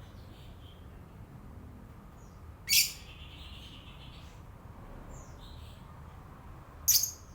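Lovebird chattering: two loud, shrill calls about four seconds apart, with softer short chirps between them.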